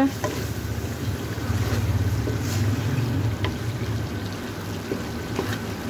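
Minced mutton frying in oil in a pan over high heat and being stirred with a wooden spoon: a sizzle with a few short scrapes and knocks of the spoon over a steady low rumble. The meat is at the stage where its water has cooked off and the oil has separated.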